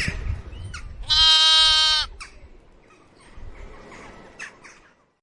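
A goat bleating once, a single loud call about a second long, after a low rumble in the first second; faint clicks and knocks scatter through the rest.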